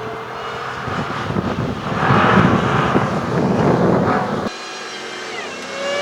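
Supercharged V8 engine of a 2016 Shelby F-150 pickup running and revving, heard in edited segments that cut abruptly about four and a half seconds in, with the pitch falling just before the end.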